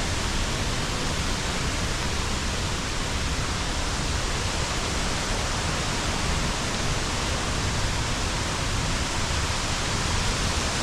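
Waterfall flowing strongly after the wet season: a steady, unbroken rush of falling water.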